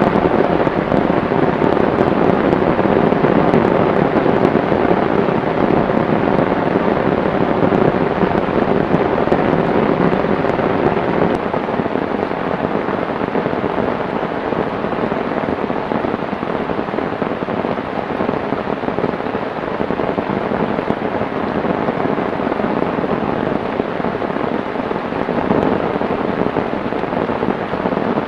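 Heavy tropical downpour: a dense, steady rush of rain.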